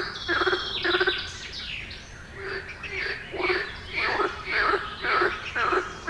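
Short animal calls repeating about twice a second, with a brief lull about two seconds in, and higher bird chirps over the first second or so.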